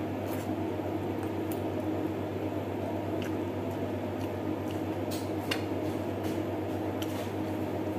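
Wet chewing and lip-smacking of someone eating chicken adobo by hand, with a handful of short, sharp clicks from the mouth and fingers. Under it runs a steady low hum and room noise.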